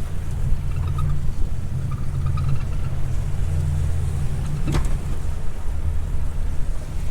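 Fishing boat's motor running steadily under way, with one sharp knock about two-thirds of the way through.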